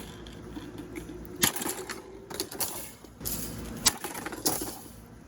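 Motor of a vintage Tatung 16-inch table fan buzzing while its loose cage vibrates and rattles against it, with a few sharp knocks, the loudest about one and a half seconds in and again near four seconds.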